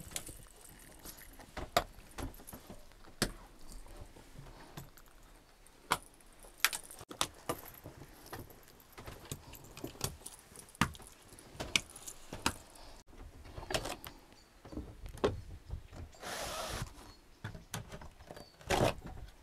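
Scattered light clicks and knocks of things being handled, with a short rustling slide about three-quarters of the way through and a louder knock near the end.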